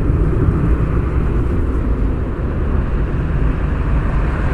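Steady low rumble of a jet airliner's engines, holding level with no sudden changes.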